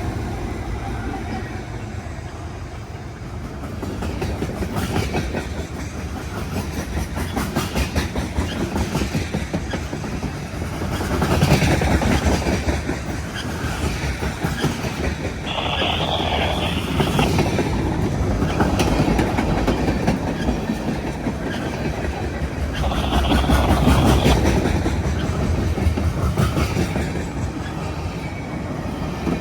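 Freight cars of a manifest train rolling past, with steady rumbling and wheels clicking over the rail joints.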